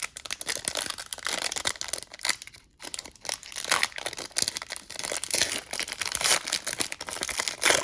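Plastic crinkling and rustling in quick, irregular crackles as trading cards and their wrapping are handled, with a brief pause about three seconds in.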